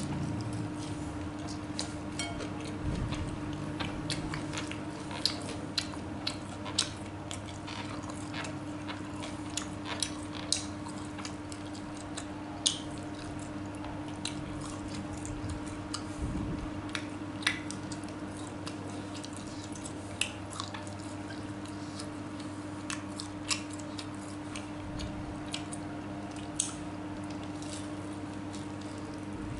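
A person chewing tofu up close, with scattered wet mouth clicks and smacks, over a steady low hum.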